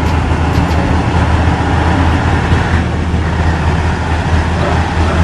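A heavy diesel engine running steadily at an even, deep drone.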